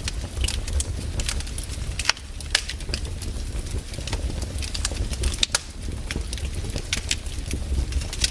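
Wood campfire crackling, with irregular sharp pops and snaps several times a second over a low, steady rumble.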